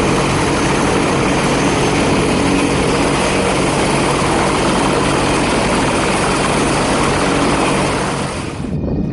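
Turboprop aircraft departing, its engines and propellers running loud and steady with a few held low tones under a dense rush of noise. The sound drops away sharply near the end.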